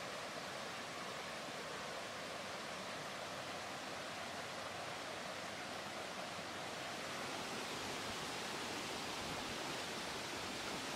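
Steady rush of flowing stream water, an even noise that grows slightly louder over the last few seconds.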